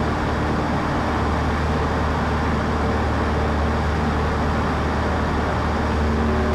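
Cessna 152's four-cylinder Lycoming engine and propeller droning steadily in cruise, heard inside the cabin.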